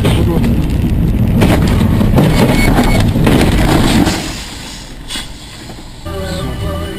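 Loud road and engine noise of a moving car, with a few short knocks, dropping off sharply about four seconds in. Near the end a different, quieter sound with steady tones comes in.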